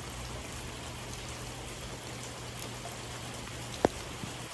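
Steady rain falling, an even hiss throughout, with a single sharp tap near the end.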